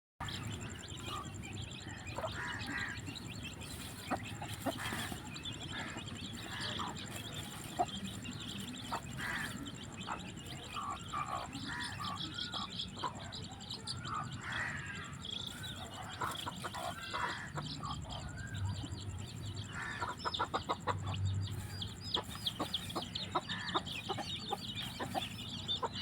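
A group of eight-day-old chicken chicks peeping: many short, high chirps overlapping without pause, coming faster for a couple of seconds near the end.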